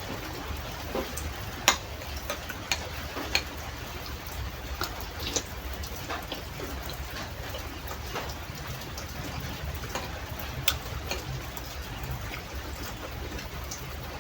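Steady rain falling, with scattered sharp clicks and taps over it, a few of them louder, about a second and a half in and again near the end.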